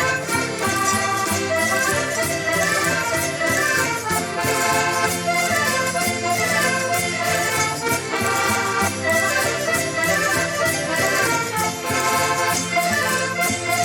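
Portuguese folk music played on accordion over a steady percussive beat.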